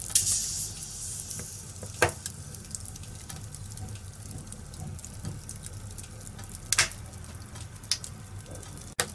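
Wood fire crackling in a fireplace over a low steady rumble. Several sharp pops break out, one just at the start along with a short hiss, one about two seconds in, and two near the end.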